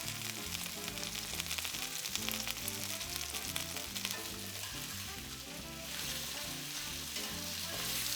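Boneless chicken thighs sizzling and crackling as they brown in oil in a hot frying pan, with background music.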